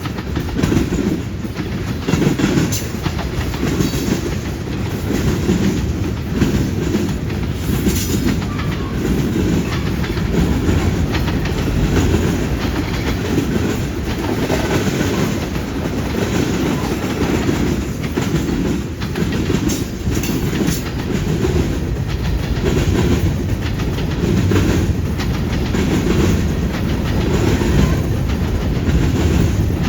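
Freight train rolling past, its cars' wheels clacking over rail joints with a steady heavy rumble.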